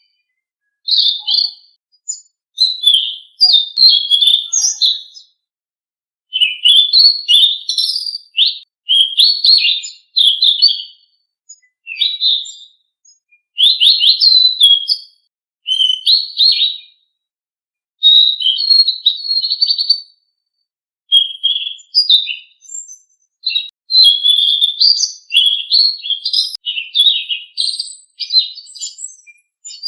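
Selendang biru songbird singing: rapid, high-pitched chirping and warbling phrases of a second or two each, broken by short pauses.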